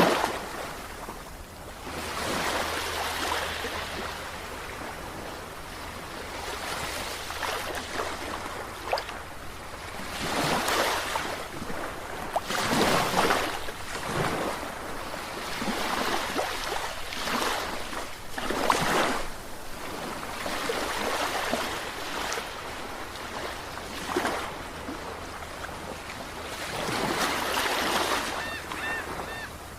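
Sea waves washing in and breaking, one swell of surf noise after another every few seconds, over a steady low hum.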